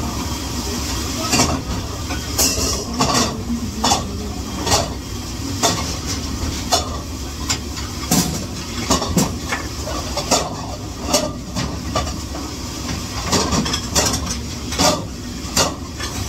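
Dishes and utensils clattering in irregular sharp knocks over a steady low hum and hiss.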